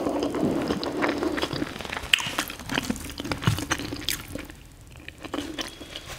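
Close-up wet chewing of a mouthful of rice and soya chunk curry, with many small mouth clicks and smacks, busiest in the first couple of seconds, alongside soft sounds of fingers mixing rice on the plate.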